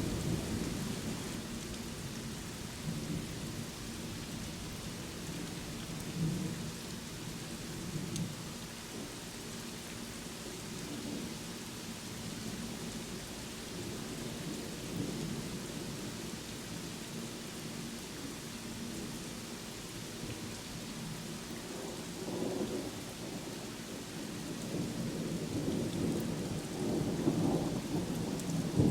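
Steady rainfall with low, rolling thunder rumbling under it. The thunder fades after the start and swells again near the end.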